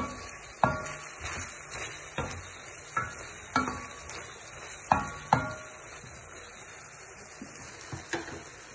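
A metal spoon stirring beef frying in a metal pot, knocking against the pot again and again, each knock ringing briefly. It goes quiet for a few seconds after the middle, then there are two more knocks near the end.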